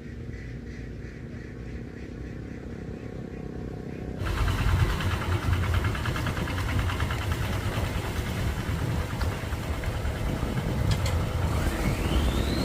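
A motor running, louder from about four seconds in, with a whine rising in pitch near the end.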